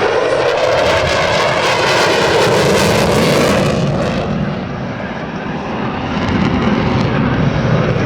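F-15E Strike Eagle's twin turbofan jet engines passing overhead, a loud jet roar with a high hiss. The hiss drops away about four seconds in, and after a brief dip a deeper rumble builds again.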